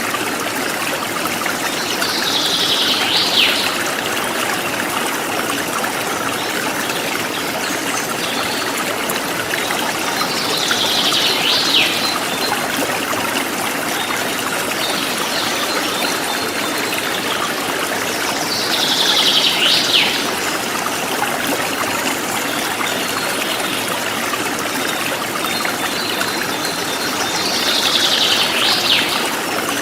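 Forest stream running steadily. A bird call, about a second and a half long and ending in a sharp downward sweep, repeats four times about eight seconds apart.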